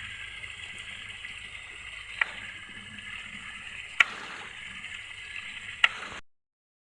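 Steady rush of running water, with three sharp clicks about two seconds apart; it cuts off suddenly near the end.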